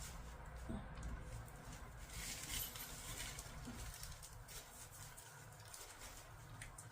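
Faint scattered rustling and light clicks of things being handled, over a low steady hum.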